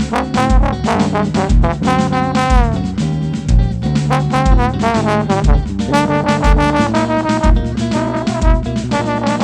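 Live band music: a trombone plays the melody with sliding, bending notes over bass and a kick drum on a steady beat.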